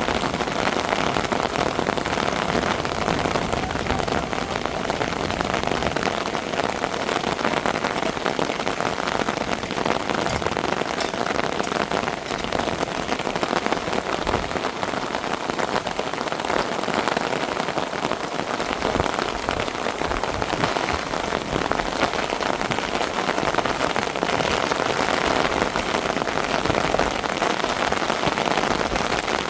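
Steady heavy rain: an even, dense hiss of many small drop hits.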